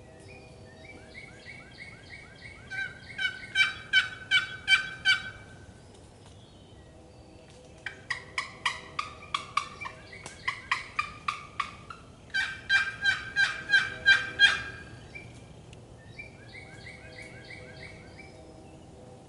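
Wild turkey yelping: four runs of rapid, repeated, falling yelps, each run growing louder, with a fainter run near the end.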